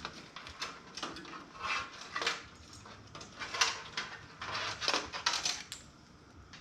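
Irregular clicks and light metallic clatter of computer parts being handled and set down in a sheet-metal toaster-oven case, with the sharpest knocks past the middle.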